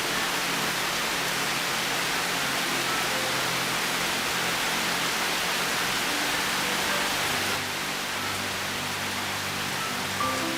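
Steady rain falling, an even hiss, with a few soft piano notes and held low tones faintly beneath it.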